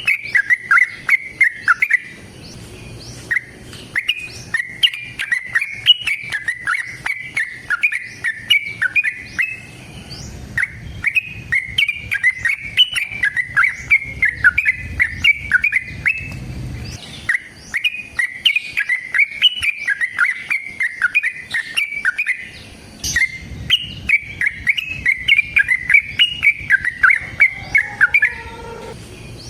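Yellow-vented bulbul (trucukan) singing in long, rapid runs of short chirping notes, broken by a few brief pauses.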